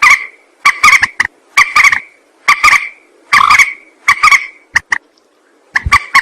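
Mandar, a rail-family bird, giving its harsh, raspy call over and over as a lure recording: short loud notes, many in quick pairs, about every half second to a second, with a break of under a second near the end.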